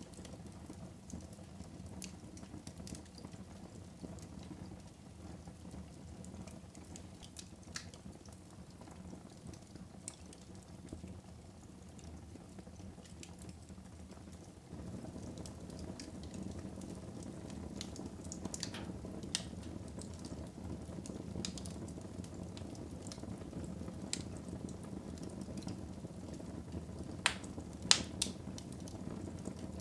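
Fire burning in a fireplace: a steady low rush of flames with scattered sharp crackles and pops. The rush grows louder about halfway through, and the loudest pops come near the end.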